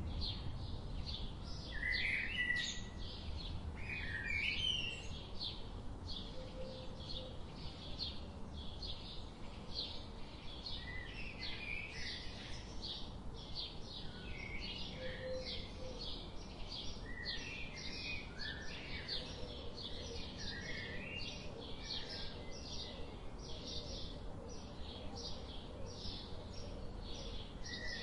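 Small birds chirping: a fast, even series of short high chirps, about three a second, mixed with occasional lower warbling notes.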